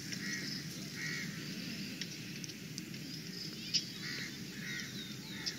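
Birds calling in trees: short repeated notes and quick chirps over a steady low background hum, with a couple of sharp ticks.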